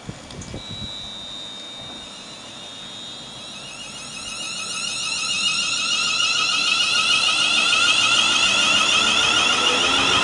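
A train approaching the station and growing steadily louder from about four seconds in, with several high-pitched whining tones over its running noise. Before that, a steady high tone sounds for about three seconds.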